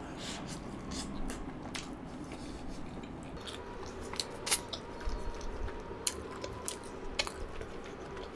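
Close-miked chewing of a mouthful of butter chicken in creamy gravy, with wet mouth sounds and irregular sharp smacks. The loudest smack comes about four and a half seconds in.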